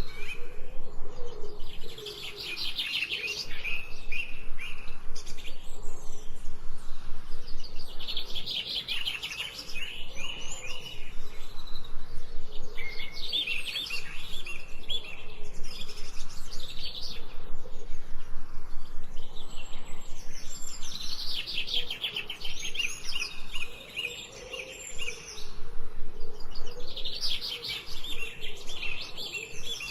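Forest songbirds singing: fast trilled phrases, high-pitched, that come back every five or six seconds, with a fainter, lower wavering call underneath.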